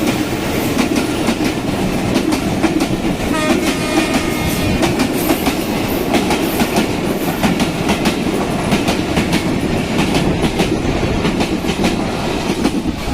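Train running on the rails, its wheels clattering over the rail joints in a steady stream of clicks over a rumble. A brief high tone sounds about four seconds in.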